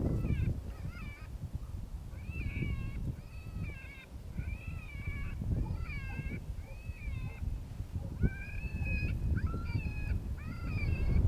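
Electronic predator caller playing a repeated distress call: short, high, arching wails about one and a half a second, in runs broken by brief pauses. Strong wind rumble on the microphone runs underneath.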